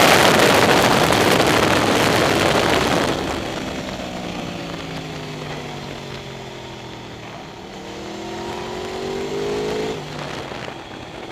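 Aprilia RSV4R's V4 engine heard from onboard, with heavy wind rush at speed for the first three seconds. The noise then drops sharply and the engine note falls as the bike slows into a corner. It rises again as the bike drives out, with an abrupt drop in pitch about ten seconds in that marks an upshift.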